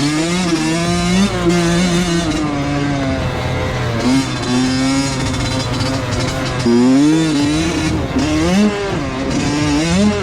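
Honda CR85 two-stroke dirt bike engine ridden hard, its pitch climbing and dropping again and again as the throttle opens and shuts and it shifts gears, with quick sharp revs about four, seven and eight and a half seconds in.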